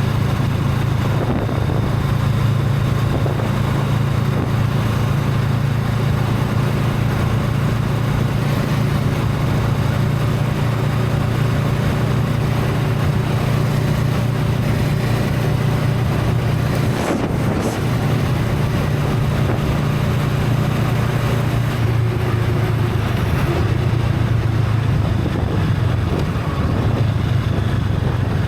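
Honda Rebel 500's parallel-twin engine, on its stock exhaust, running steadily while riding, with wind noise on the microphone. The engine note breaks briefly about seventeen seconds in.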